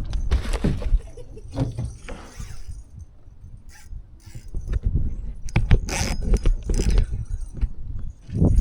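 Wind buffeting the microphone in gusts, with scattered clicks, knocks and small metallic rattles from fishing gear being handled.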